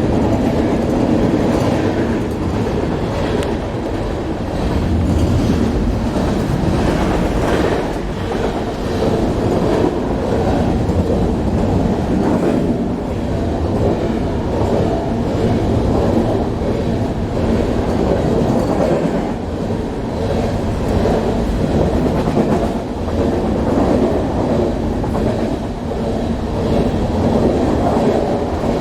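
Train crossing a two-track railway bridge, heard from underneath the span: a loud, steady drone from the vibrating bridge structure, with the clatter of wheels over the rails.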